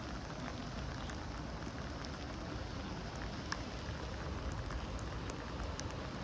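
Rain falling steadily, with scattered faint drop ticks over an even hiss and a low rumble.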